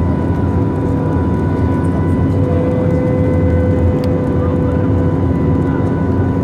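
Airplane engine noise: a loud, steady drone with a steady whine over it.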